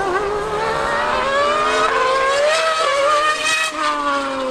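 The 2016 Mercedes-AMG F1 car and the Yamaha R1M superbike accelerating hard in a drag race, with high-revving engines climbing in pitch for a couple of seconds. From about three and a half seconds in, a second, lower engine note joins and the pitch falls away.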